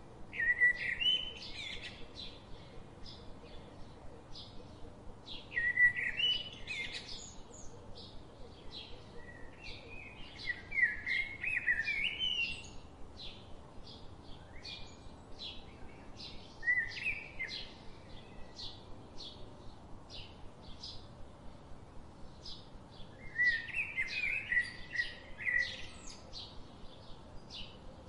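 Birds singing: a steady run of short high chirps about twice a second, with louder warbling phrases breaking in every five or six seconds.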